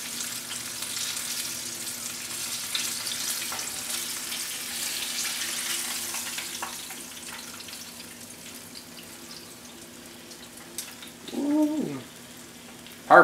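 Rabbit pieces frying in hot grease in a skillet: a steady sizzle that fades gradually over the first eight seconds or so. A short voice-like sound that rises and falls in pitch near the end.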